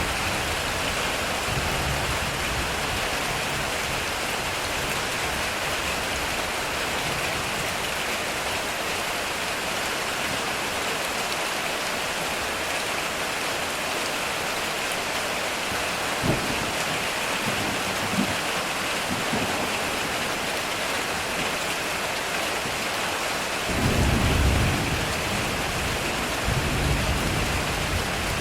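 Heavy rain falling steadily on a metal roof, with thunder: a sharp crack about sixteen seconds in, a heavier low rumble a little before the end, and another shorter rumble near the end.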